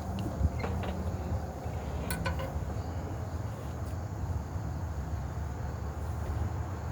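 Insects trilling steadily, a thin high-pitched drone, over a constant low rumble, with a few faint clicks near the start and about two seconds in.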